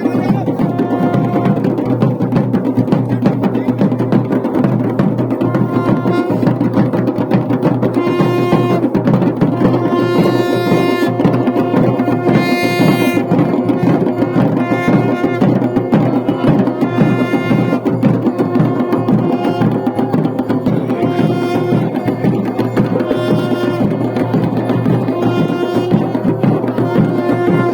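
Traditional music: fast, steady drumming with a pitched melody that comes in and out in short phrases over it.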